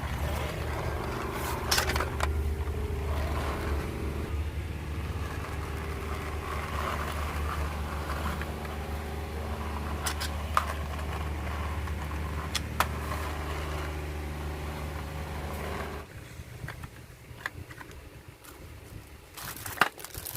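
A toy car's small motor humming steadily, with a few sharp clicks from handling the toy, until it cuts off abruptly about sixteen seconds in.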